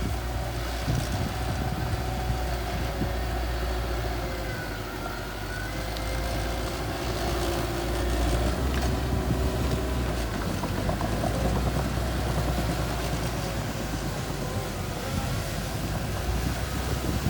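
Small bulldozer's diesel engine running steadily with a low rumble, with a faint whine above it.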